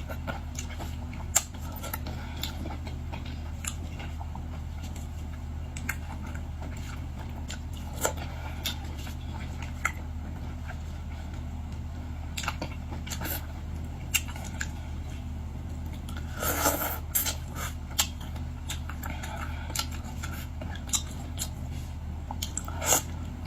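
Close-up eating sounds of a person working through boiled seafood: scattered sharp clicks and crunches of chewing and handling shellfish, with a louder cluster of crackling about two thirds of the way in, over a steady low hum.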